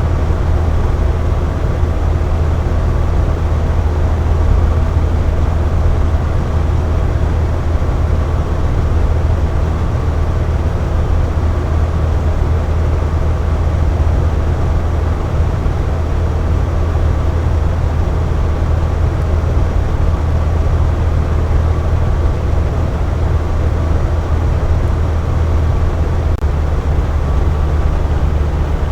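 Box fan running steadily: an even rush of air over a strong low rumble, with a few faint steady hum tones above it.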